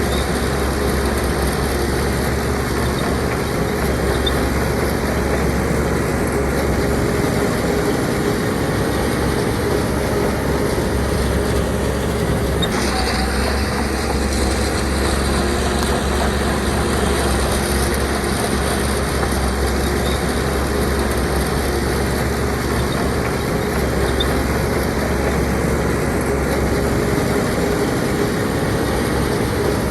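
Heavy diesel earthmoving machinery running steadily under work, a deep engine rumble with a steady whine over it and a brief shift in the sound about halfway through.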